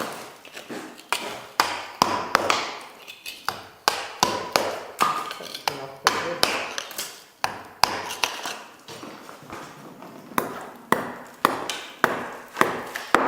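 Steady hammer blows on a steel chisel, cutting out masonry, about two sharp strikes a second, each with a short metallic ring; the strikes thin out for a moment about two-thirds of the way through, then resume.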